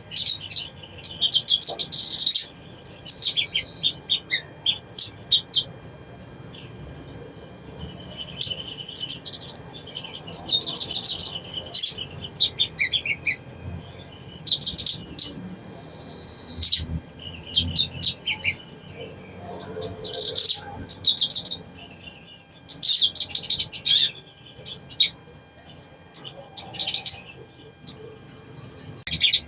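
Little spiderhunter (sogon, sogok ontong) calling in bursts of rapid, high chirps and twitters, a burst every second or two with short pauses between.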